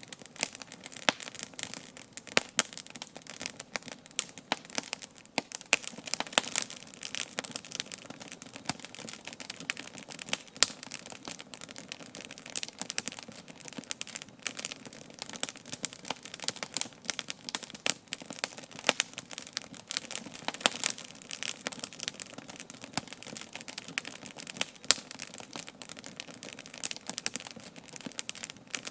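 Wood campfire crackling: dense, irregular sharp snaps over a soft, steady hiss.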